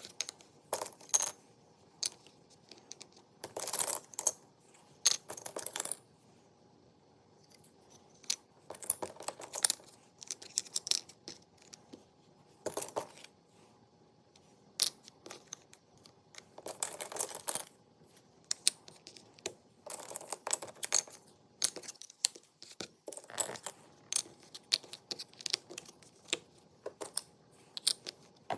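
Jigsaw puzzle pieces being handled and set down: irregular sharp clicks and taps, with short rustling stretches in between.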